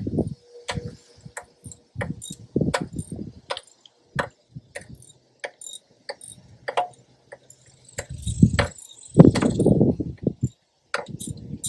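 Irregular metallic clicks and knocks of a socket wrench and hand tools working a spark plug out of the 1972 Buick Riviera's 455 V8, with short bursts of rustling handling about two seconds in and again near the end.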